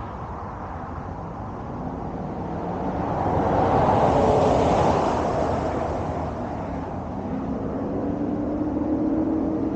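A 2021 Mustang GT with its 5.0 V8 and Borla ATAK cat-back exhaust driving past: a rough exhaust and road noise that swells to a peak about four to five seconds in and then fades, with a steadier engine note coming in near the end.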